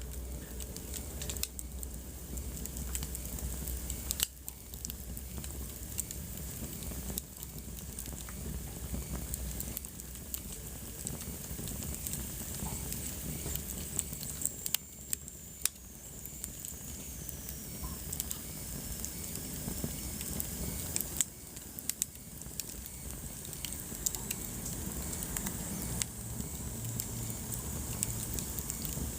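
Wood fire crackling: a steady run of sharp pops and snaps over a low hiss. About halfway through, a faint high whistle slides slowly down in pitch.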